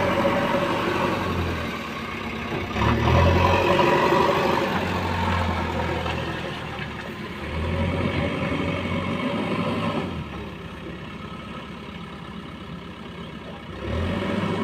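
Heavy diesel engine of roadwork machinery revving up in repeated surges. It settles to a lower, quieter running for a few seconds, then revs again near the end.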